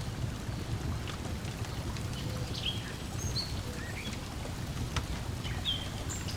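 Lake water lapping against the shore in a steady wash, with a wood fire crackling in scattered sharp pops. Short, high bird chirps come now and then through the middle and latter part.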